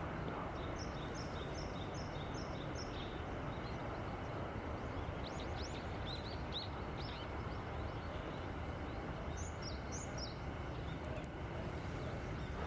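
Small wild songbirds calling in short high phrases over a steady outdoor hiss and low rumble: first a two-note call repeated about six times, then a quick run of sliding notes midway, then a few high notes later on.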